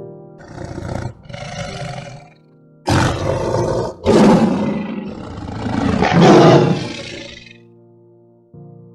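A large wild animal calling loudly over soft background music: two shorter calls, then longer, louder ones for about four seconds.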